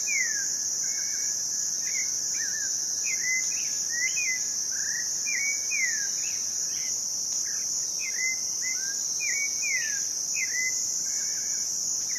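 A steady high-pitched chorus of crickets, with birds calling over it in many short whistled notes that slide up and down.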